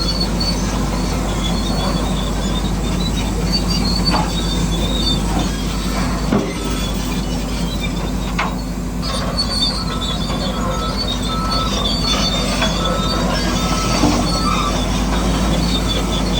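Small electric motors and gearboxes of radio-controlled construction models running: a steady hum with thin, high-pitched squealing whines that come and go, and a few brief clicks.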